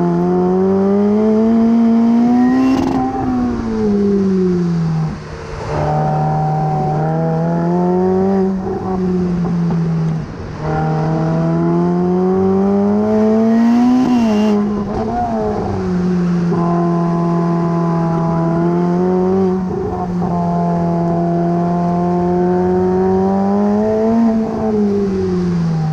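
Sports car engine and exhaust under hard driving, without speech. The engine note climbs as the car accelerates and falls back at each gear change or lift of the throttle, about four times, with a stretch at steady revs in the middle.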